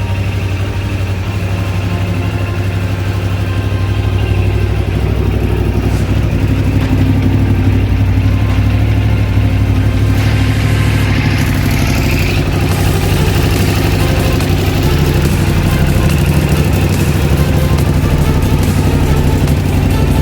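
QJ SRT 900 motorcycle engine idling steadily through an exhaust that its owner jokes has 'no ecology'.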